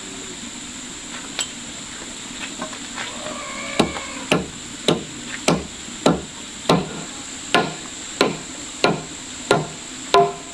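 Hammer striking wood in a steady rhythm, roughly one and a half blows a second, starting a few seconds in after a few lighter knocks.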